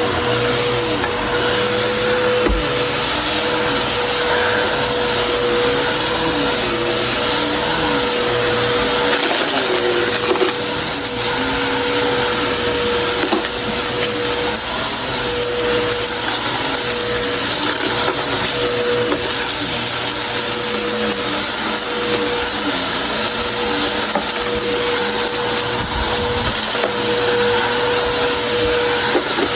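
Vacuum cleaner running steadily, with a constant motor whine under the rush of suction.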